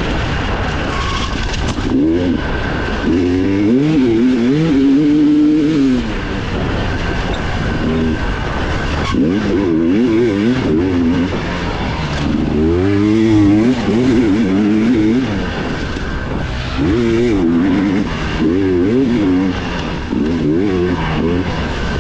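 Dirt bike engine heard from on board, revving up and backing off again and again as it is ridden hard along a trail, its pitch rising and falling every second or two.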